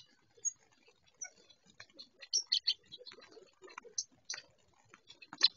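Birds giving short, scattered chip and tick notes, a few a second and irregular, with a louder cluster near the end.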